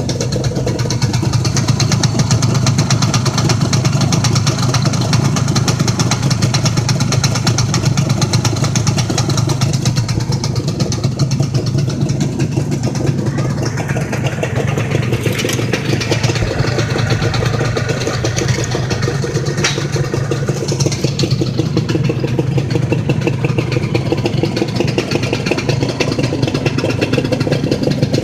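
Modenas Dinamik 120's single-cylinder two-stroke engine idling steadily while being warmed up after long disuse. A brief click comes about twenty seconds in.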